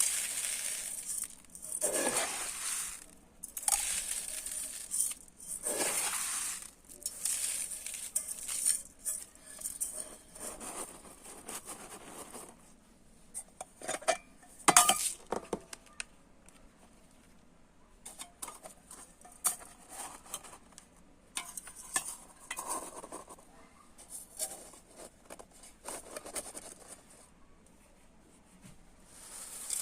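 Dry rice being scooped and poured: repeated rushes of grains pattering and hissing into a dish, each a second or two long, with small clinks of the scoop against the dish. There is a sharper knock about fifteen seconds in.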